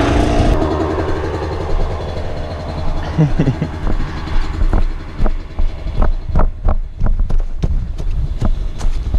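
Off-road vehicle engine running steadily at low speed. Over the second half it is joined by a run of irregular sharp knocks and clatter.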